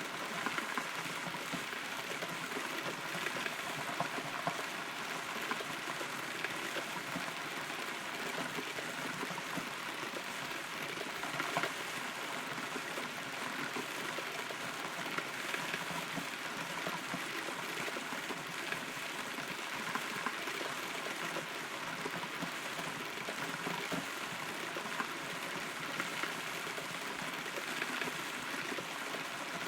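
Steady rain heard from inside a hollow rotten tree trunk, with many small drips ticking on the wood and a few louder drops.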